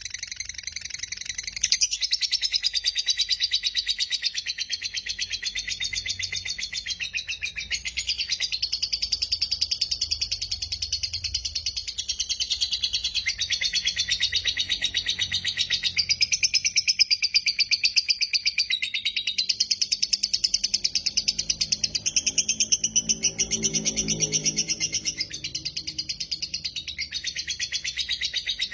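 Lovebird singing a long, very rapid chattering trill in extended phrases that waver slightly up and down in pitch. It breaks off briefly every few seconds before starting again.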